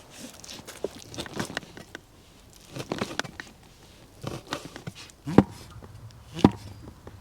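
Irregular knocks and clatters of things being handled, with two louder knocks near the end.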